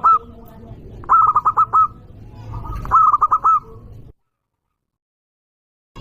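Zebra dove (perkutut) cooing in quick phrases of four or five staccato notes. The tail of one phrase sounds at the very start, then two full phrases follow about a second and a half apart, over a low background rumble. About four seconds in, the sound cuts off to complete silence.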